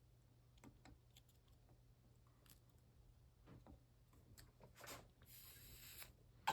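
Near silence while capacitor leads are soldered onto a circuit board: scattered faint ticks and taps, a brief hiss about five seconds in, over a low steady hum.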